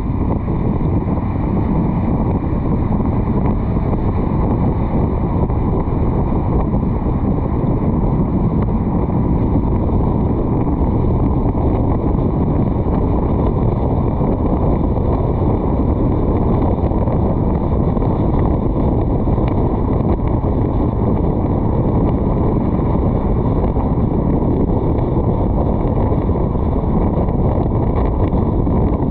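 Steady wind rumble on the microphone of a car-roof-mounted GoPro while the car drives, with the car's road noise mixed in.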